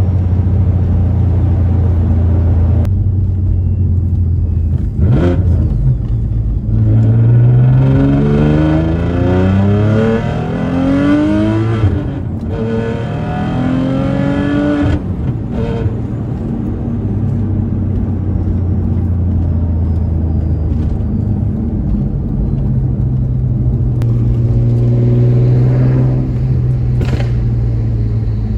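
Audi B5 S4's 2.7-litre twin-turbo V6 with a straight-piped exhaust, pulling hard with the engine note climbing in pitch. A quick shift comes about 12 seconds in, the note climbs again, and the throttle is closed about 15 seconds in. It then cruises at a steady note, with a few sharp exhaust pops near the end.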